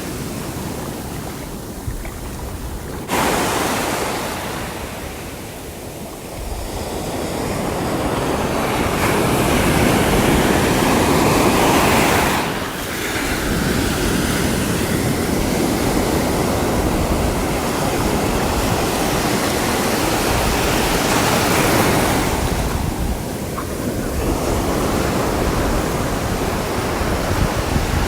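Sea waves breaking and washing on the shore: a continuous rush of surf that swells and ebbs, with a sudden surge about three seconds in and a sharp fall-off a little before halfway.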